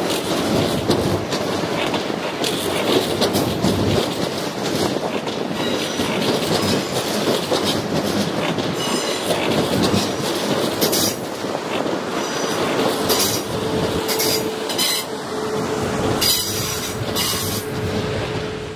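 Passenger train running over the rails, with a steady rumble and high-pitched wheel squeals that come and go in the second half. A steady hum joins about two-thirds of the way in.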